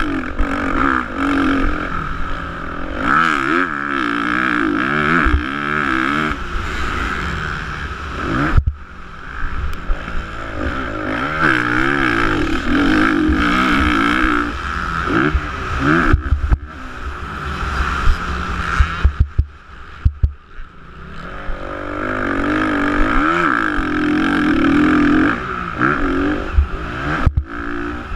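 Motocross bike engine at racing load, its pitch climbing and falling again and again as the throttle opens and shuts, with three short drops where it nearly cuts out. Sharp knocks break in along the way.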